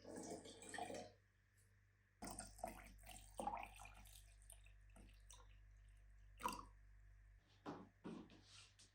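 Water running briefly, then a series of light knocks and clinks, all faint.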